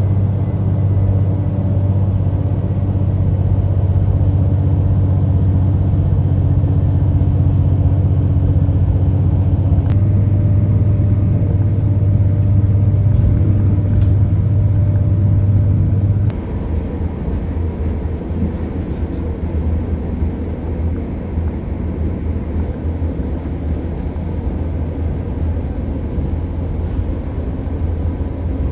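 Train running with a steady low rumble and engine hum; about sixteen seconds in the hum drops away and the rumble becomes quieter and rougher.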